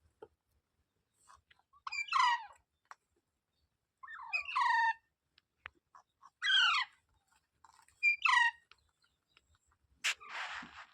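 Green parrot calling: four short, shrill calls about two seconds apart, each a quick sweep in pitch, followed near the end by a brief rustling burst.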